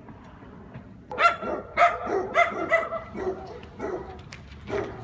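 A dog barking, a quick run of short yips and barks about half a second apart, then one more near the end.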